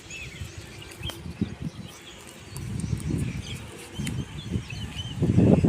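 Small birds chirping in short, repeated calls, over a low rumbling noise that builds from about halfway through and is loudest near the end.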